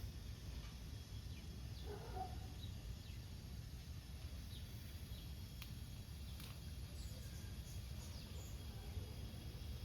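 Outdoor garden ambience: scattered short, high bird chirps, each sliding downward, over a steady low rumble.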